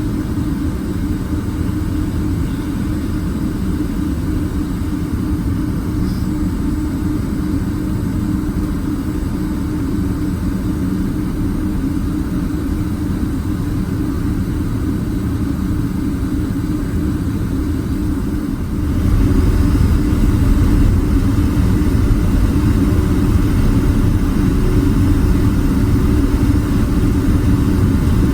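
Steady engine and air-system rumble of a Boeing 767-300ER heard inside the cabin. About two-thirds of the way through it suddenly grows louder and deeper and holds at that level.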